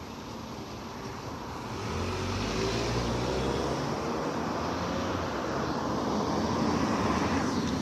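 A motor vehicle driving past, its engine and tyre noise swelling about two seconds in, with a slowly falling pitch as it goes by.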